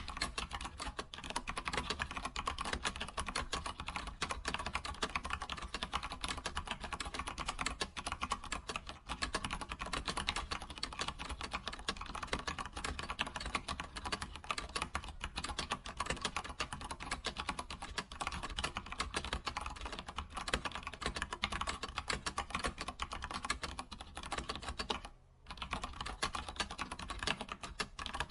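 Computer keyboard being typed on quickly and without letup, a dense stream of key clicks, with a brief pause near the end.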